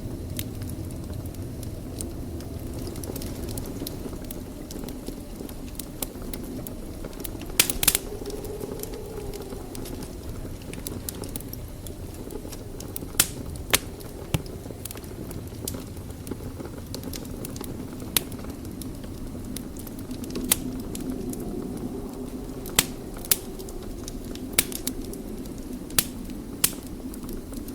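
Wood fire burning in a fireplace: a steady low rush of flame with scattered sharp crackles and pops, two close together about eight seconds in and several more in the second half.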